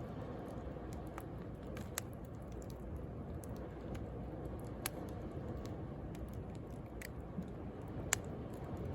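Wood bonfire crackling, with a few sharp pops (the loudest about eight seconds in) over a steady low rush of sea waves.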